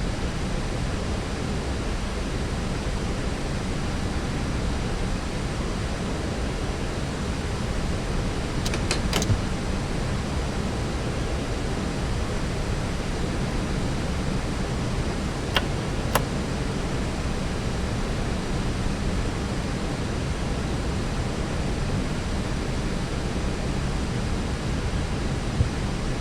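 Steady rushing noise of airflow and engines inside an Airbus A321neo descending on approach. A few brief clicks come about nine seconds in and twice around sixteen seconds.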